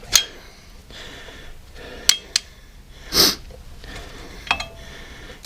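A screwdriver clicking and clinking against a brake caliper while a rag is twisted in its bushing bore: a few sharp metal taps, one ringing briefly near the end, and a short breath-like hiss about three seconds in.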